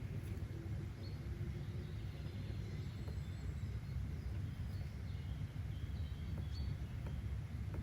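Steady low outdoor background rumble with faint, scattered bird chirps high above it and a few soft clicks.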